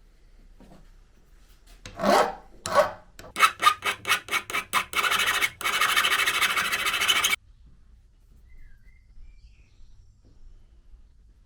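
Hand rasping on metal, filing or abrading a part: two slow scraping strokes, then a quick run of short strokes, then a couple of seconds of continuous rasping that stops suddenly.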